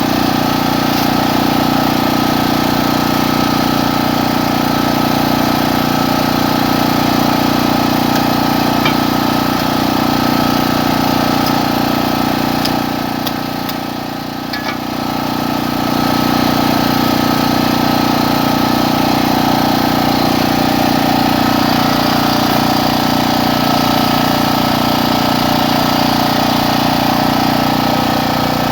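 Portable generator engine running steadily, a constant mechanical hum that dips in level briefly about halfway through.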